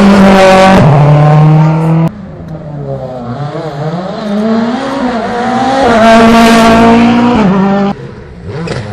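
Rally car engine at high revs, cutting off sharply about two seconds in as the throttle is lifted. The revs then waver and climb back to a second hard full-throttle pull before dropping off again near the end.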